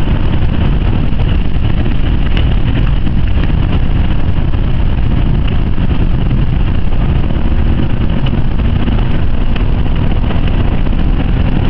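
Cabin noise inside a Jaguar XJ's supercharged 5.0-litre V8 saloon running at speed on a wet track: the engine's steady drone under heavy tyre and wind rumble, loud and unchanging.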